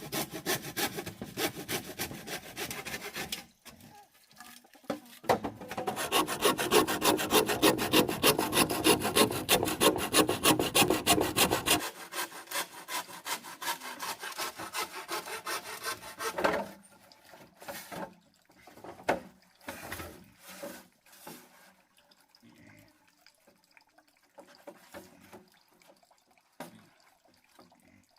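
Wood being sawn or rasped by hand: a fast, even run of rough back-and-forth strokes, about three a second, that grows quieter and stops about two-thirds of the way through, leaving only scattered light knocks and clicks.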